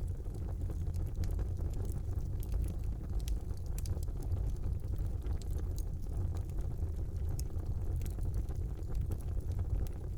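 Wood fire burning in a brick fireplace: a steady low rumble of the flames with scattered small crackles and pops.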